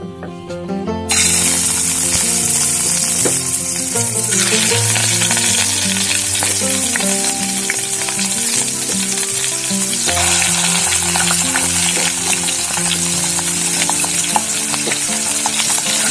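Marinated chicken pieces frying in hot ghee in a kadai: a loud, steady sizzle that starts suddenly about a second in as the pieces go into the fat, with scattered light clicks of pieces and a ladle against the pan.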